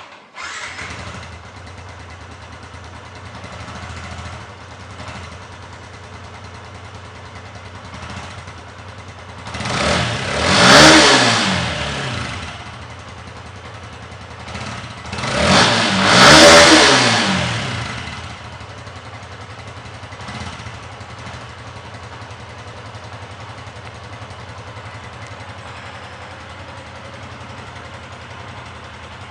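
Yamaha Exciter 150 motorcycle's single-cylinder four-stroke engine starting up, then idling at its exhaust. It is revved up twice, about ten and sixteen seconds in, each rev rising then falling back to a steady idle.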